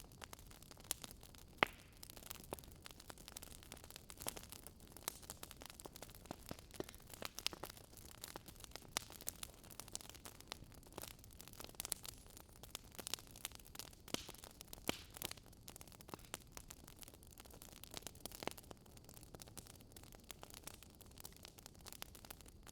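Wood fire crackling: irregular sharp pops and snaps of burning logs over a faint hiss.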